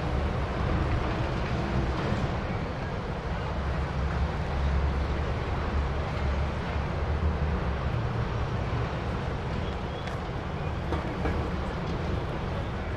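Steady low vehicle rumble with a hiss above it, with no distinct events.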